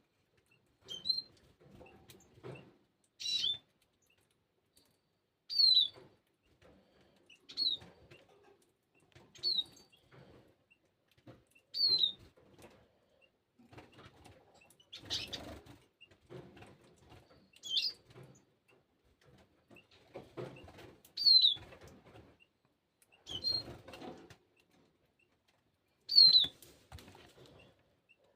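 Eurasian bullfinches giving short, soft piping calls that slide downward in pitch, about one every two seconds. Fainter rustling sounds come in between as they feed on seed.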